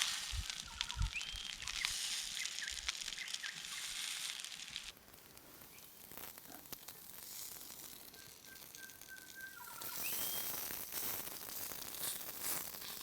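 Halved dim sims sizzling in a frying pan over a campfire, a steady high hiss that drops away sharply about five seconds in and returns near the end. A bird calls over it with a short rising whistle about a second in and again near ten seconds, plus one longer held whistle just before.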